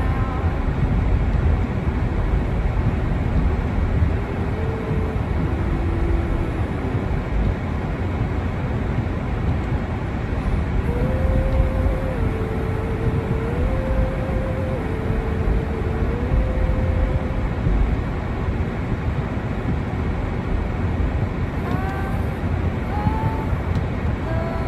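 Steady low rumbling outdoor noise. A faint tune of held notes stepping up and down comes through twice.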